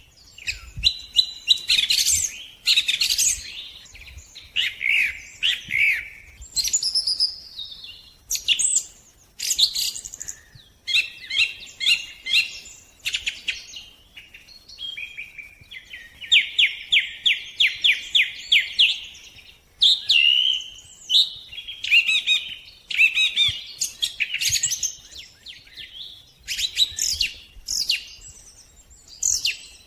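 Songbirds singing: a continuous run of high chirps, sweeping whistles and warbled phrases, with a rapid even trill lasting about three seconds near the middle.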